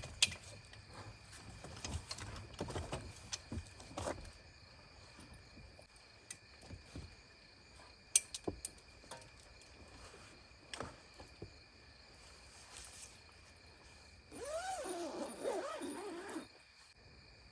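Scattered light knocks and clicks, with one sharp click about eight seconds in. Near the end comes a roughly two-second wavering animal vocal sound that bends up and down in pitch. A faint steady high tone runs underneath.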